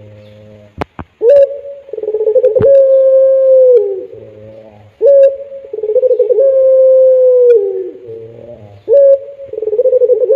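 Puter pelung dove cooing, its calls coming about every four seconds, three times. Each call starts with a short upward note, then runs into a long drawn-out coo that drops away at its end. A couple of sharp clicks come about a second in.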